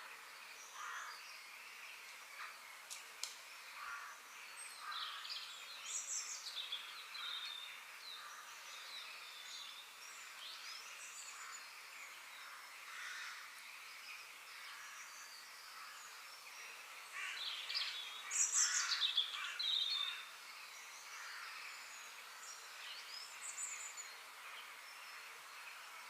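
Several birds chirping and calling on and off, with a busier, louder flurry of calls about two-thirds of the way through, over a faint steady outdoor background hiss.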